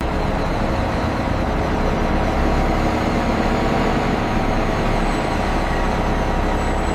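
A heavy engine running steadily, a low drone with a constant whine on top.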